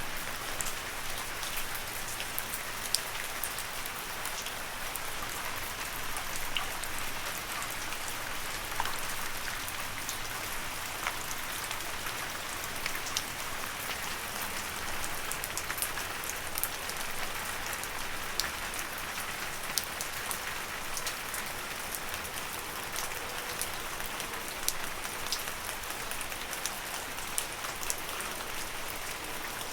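Steady rain falling on leaves, an even patter with scattered sharper drop hits.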